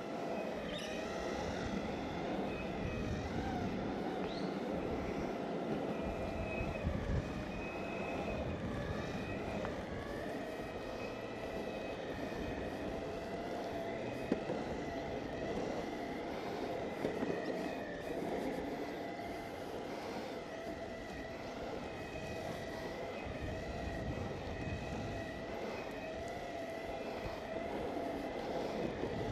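Exway Flex Pro V3 electric skateboard riding: wheels rolling over asphalt with the steady whine of its electric motors, the pitch drifting slightly as speed changes. A single sharp click about halfway through.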